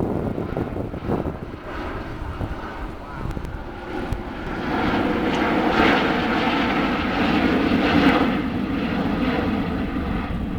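Jet aircraft flying a display pass overhead. Its engine noise builds about halfway through and stays loud.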